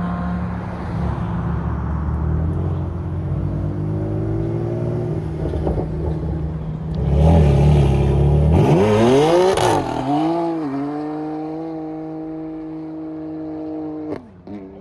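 Car engine running hard and revving. Partway through it gets louder and the pitch climbs steeply, then it holds a steady high note for a few seconds before dropping off near the end.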